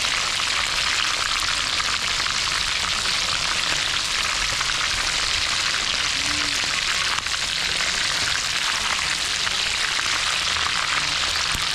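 Food frying in hot oil in a cooking pot, a steady sizzle with no change in level.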